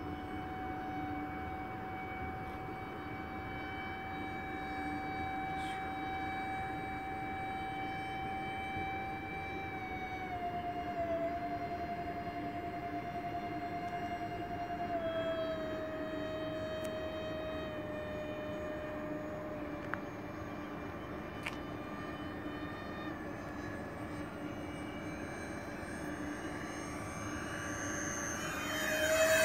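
Electric ducted-fan jet units of a radio-controlled Airbus A330 model airliner in flight make a steady, distant whine. The pitch steps down a few times as the throttle is eased back. Near the end the whine rises in pitch and grows louder as the model comes closer.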